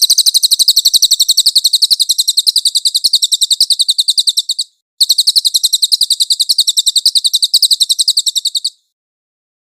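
Songbird masteran recording: a high, rapid trill of repeated notes at about ten a second, sung in two long bouts with a short break about four and a half seconds in, cutting off abruptly near the end.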